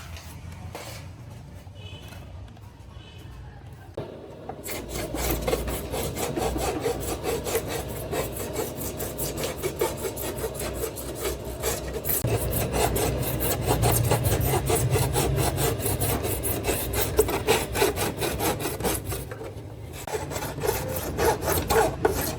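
Hand abrading of the plastic tail light, rapid back-and-forth rubbing strokes. The strokes start about four seconds in, pause briefly near the end, and then resume.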